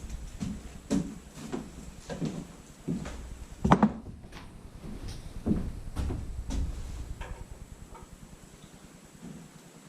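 A series of irregular knocks and clunks, roughly one or two a second and loudest about four seconds in, over an uneven low rumble.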